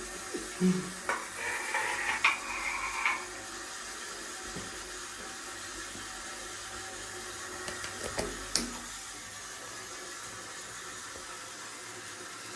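Water running steadily from a shower spray. A louder hissing stretch comes about one to three seconds in, with a few sharp clicks, and a few knocks follow around two-thirds of the way through.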